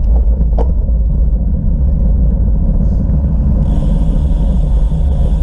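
Steady low rumble of wind buffeting a bike-mounted camera's microphone while riding. A single click comes about half a second in, and a faint high hiss joins near the end.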